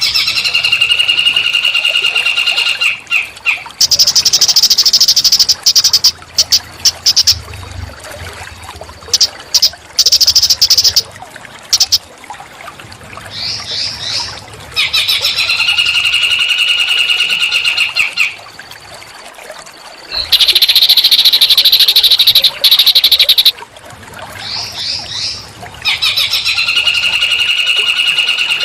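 Small songbird's song played as a training recording, in repeated phrases: a steady buzzing trill lasting about three seconds alternates with harsh, rapid, high chatter and short quick rising notes, the rough 'shooting' kind of song used to teach magpie robins.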